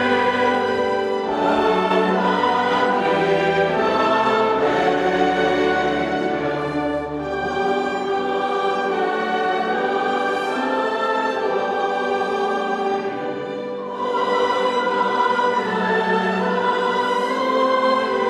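A choir singing with an orchestra in classical sacred style, sustained chords swelling again about two-thirds of the way through.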